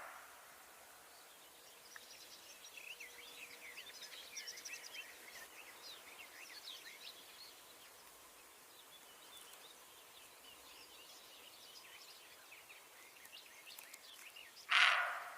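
Faint birds chirping in the background, many quick high chirps for the first half or so, then sparser. Near the end comes a short, loud animal call.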